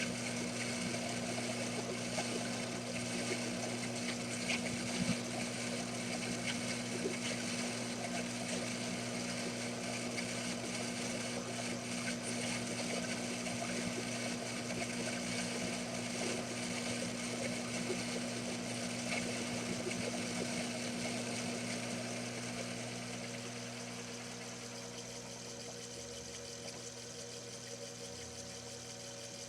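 Small metal lathe running under power leadscrew feed while taking a cut: a steady motor hum with cutting noise. It grows a little quieter about three-quarters of the way through.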